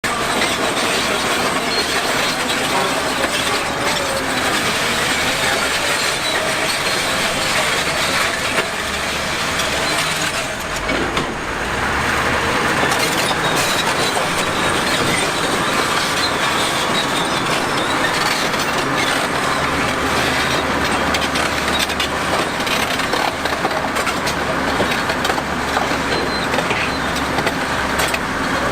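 Heavy construction machinery working, a steady dense clatter with a brief lull about eleven seconds in.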